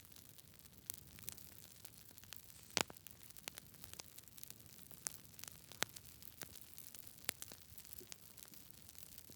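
Wood fire burning in a fireplace, crackling: irregular sharp pops and snaps over a low steady hiss. The loudest pop comes about three seconds in.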